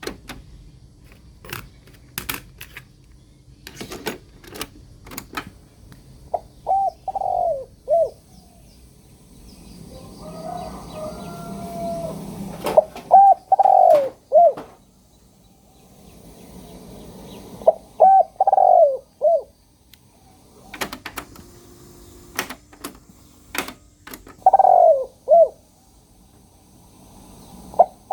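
Bird cooing in short phrases of four or five falling notes, repeated about every five seconds. Scattered sharp clicks fall between the phrases.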